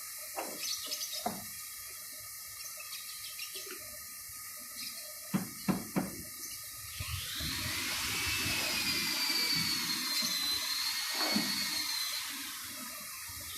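Water spraying or running in a steady hiss, with a few sharp clicks partway through. About seven seconds in, a louder wavering high whine joins it for around five seconds, then eases off.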